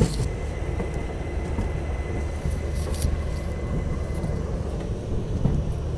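Steady low rumble of a train at a station platform, with a faint thin whine through the first four seconds or so.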